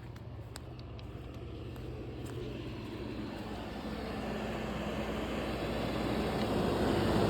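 Sharp Comfort Touch 12,000 BTU window air conditioner running: a steady compressor hum under the rush of its fan, growing steadily louder.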